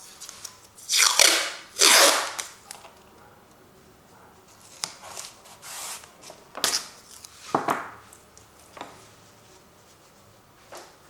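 Painting strokes of acrylic paint on canvas: two loud drawn strokes about a second apart, then after a pause several shorter, softer strokes.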